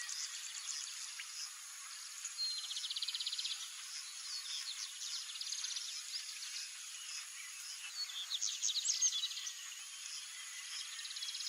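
Wild birds chirping and calling high-pitched, with a fast buzzy trill about two and a half seconds in and a louder run of sweeping calls about eight seconds in. A steady high insect drone runs underneath and drops out for a second or two just after that run of calls.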